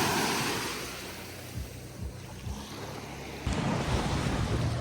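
Sea waves washing on a beach, with wind buffeting the microphone; the sound fades over the first second and gets louder again about three and a half seconds in.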